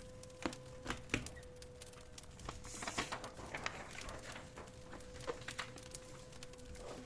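Wood fire crackling in a fireplace: irregular sharp snaps and pops over a soft hiss, with a faint steady hum underneath.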